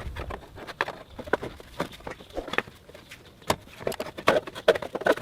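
Metal heat shield knocking and clicking against the engine as it is worked into place over the exhaust manifold, in irregular knocks that come thicker near the end.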